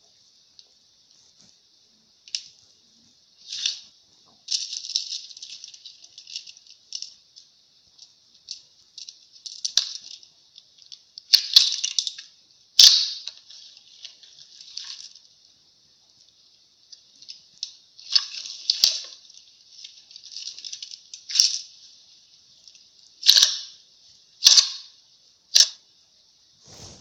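Slime being poked and squished by fingers: irregular sticky pops, crackles and squelches. There are sharper snaps around halfway and three more about a second apart near the end.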